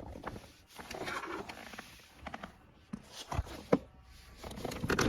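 Plastic car interior trim scraping and rubbing as a center console piece is slid into place, with scattered small clicks and two sharp knocks about three and a half seconds in.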